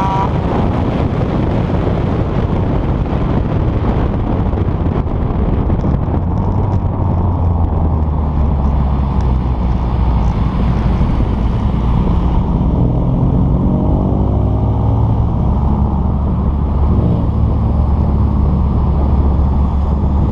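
The engine of a small 1.5-litre hatchback running while driving, under heavy wind and road noise, with the revs climbing in pitch about two-thirds of the way through.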